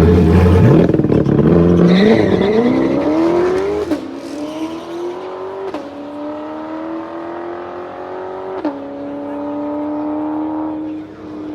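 Drag-race vehicle launching and accelerating hard, its engine note climbing through the gears with a sharp drop at each shift, about four, six and nine seconds in, and fading as it pulls away.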